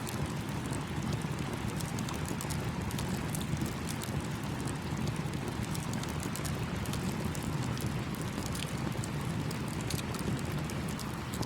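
Campfire crackling, with small pops scattered all through, over the steady rush of a flowing stream.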